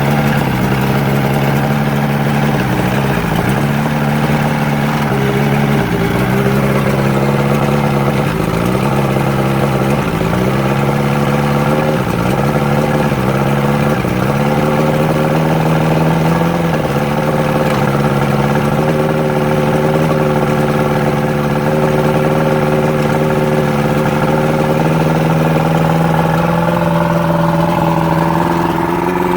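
Johnson 115 HP two-stroke outboard running on all four cylinders out of the water, loud because there is no water over the exhaust to muffle it, while it burns off winter fogging oil. Its idle wavers up and down every couple of seconds at first, then settles steady, and the revs rise near the end.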